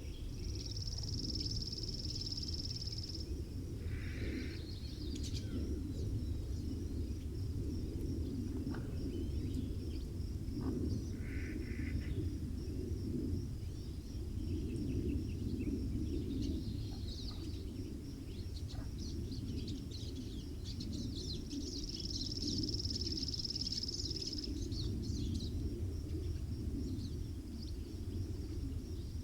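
Steady low wind noise with songbirds chirping high throughout; a high trill lasting a few seconds comes twice, near the start and about three-quarters of the way through.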